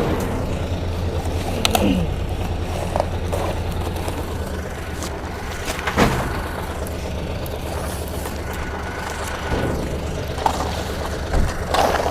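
Engine of a recycling collection truck running steadily, with a few sharp clanks and knocks from its machinery along the way.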